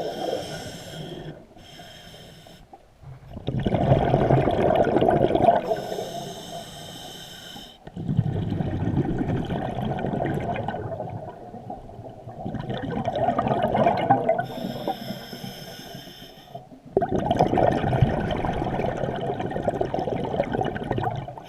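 Scuba diver breathing through a regulator underwater: each inhale is a hiss through the regulator, each exhale a rumbling rush of bubbles, in a slow cycle of about one breath every four to five seconds.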